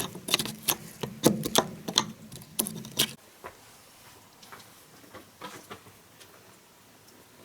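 Irregular sharp knocks and clicks, dense for about three seconds, then stopping suddenly and leaving only a few faint scattered clicks.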